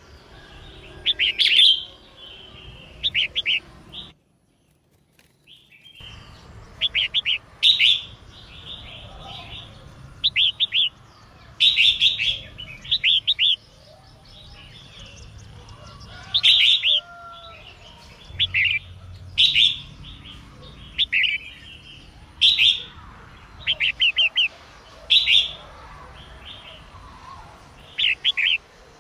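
Female red-whiskered bulbul singing short, chirpy phrases over and over, a lure song meant to stir male bulbuls to sing back. The song stops briefly about four seconds in.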